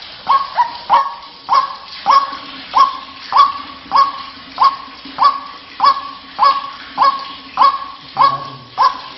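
White-breasted waterhen (ruak-ruak) calling: a steady run of short, sharply rising notes, about one and a half per second.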